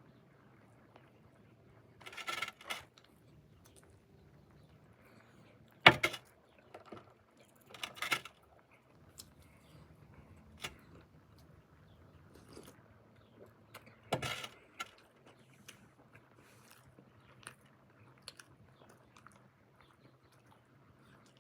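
Someone chewing and biting into MRE food, with small clicks and a few short rustling bursts between bites. A single sharp knock about six seconds in is the loudest sound.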